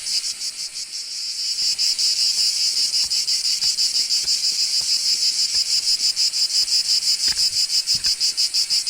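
Cicadas calling in a loud, pulsing chorus, an even throb of several pulses a second. It dips briefly, then swells back up about a second and a half in.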